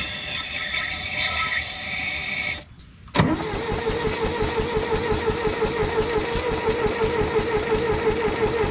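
A hiss of aerosol carb cleaner spraying into the tractor's carburetor for about two and a half seconds. Then, after a short break, an engine begins cranking over on its starter with a steady pulsing rhythm and a wavering whine, without firing.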